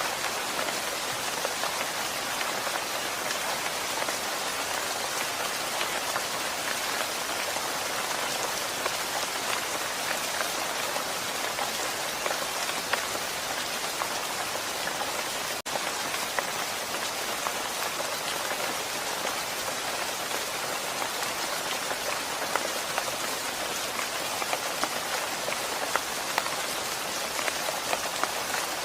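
Steady rain falling, with a dense stream of close drop hits on a surface. There is a momentary drop-out in the sound about halfway through.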